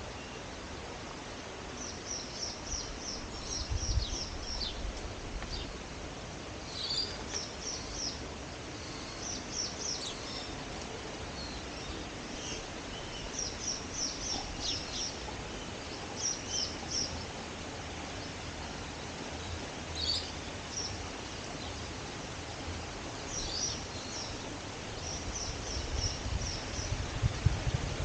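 Small birds chirping in quick clusters of high notes, recurring every second or two over a steady outdoor hiss. A low buffeting on the microphone builds near the end.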